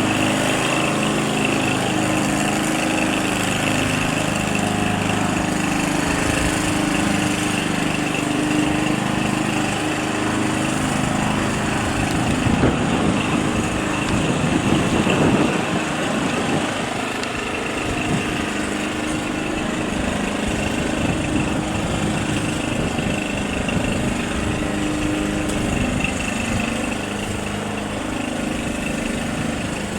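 A small piston engine running steadily, rising to a brief louder swell about halfway through before settling again.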